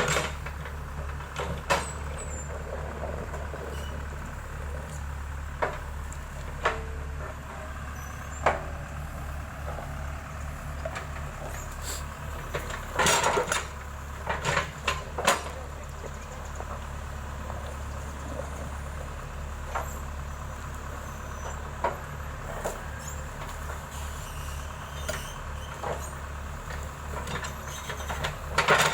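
Heavy road-equipment diesel engine running steadily with a low drone, with scattered knocks and clunks that come thickest about halfway through.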